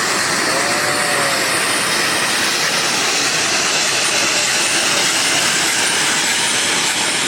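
Geared steam logging locomotive running past, a loud steady rush of steam and running-gear noise.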